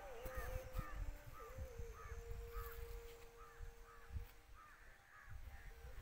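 Faint birds calling: short notes repeated two or three times a second, over a low wind rumble on the microphone.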